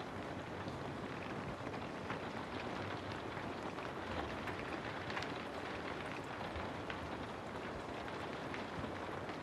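Steady rain falling, a dense even hiss dotted with many small pattering drop ticks.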